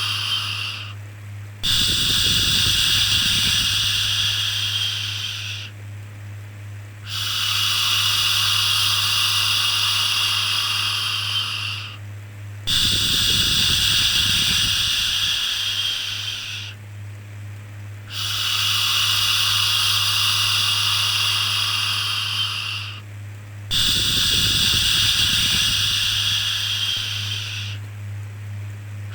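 Soothing baby shushing: a long 'shhh' repeated about every five and a half seconds, each shush lasting four to five seconds with a brief pause between, over a steady low hum.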